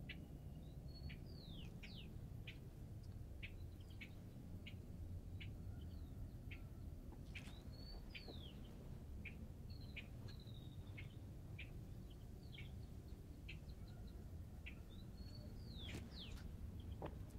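Small birds chirping, with short high chirps and curved, down-slurred notes coming about once or twice a second, faint over a steady low background noise.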